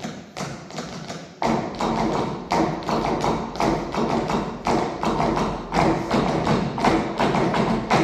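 Rhythmic percussion beating steadily about twice a second, soft at first and growing louder about one and a half seconds in.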